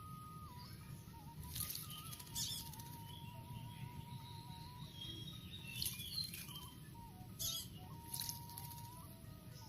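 Kacer (Oriental magpie-robin) bathing, its wings fluttering in water in a handful of short splashy bursts. Faint background music with held notes plays under it.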